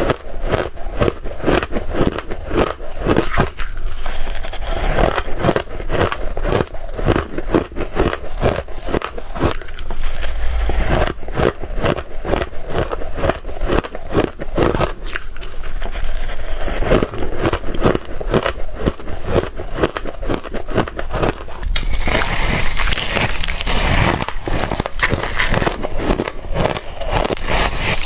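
Close-up biting and chewing of frozen shaved ice, a dense run of crisp, irregular crunches. About three quarters of the way through, it changes to brighter, harder crunching of crushed ice chunks.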